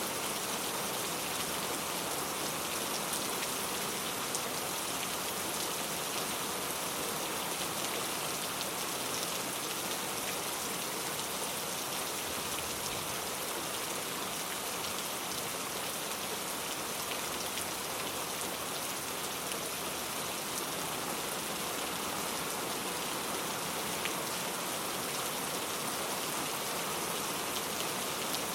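Steady rain falling on a surface, an even hiss of pattering drops that does not let up.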